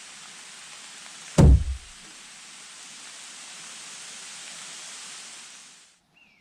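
Steady rain hiss with one heavy, deep thump about a second and a half in; the hiss fades out near the end.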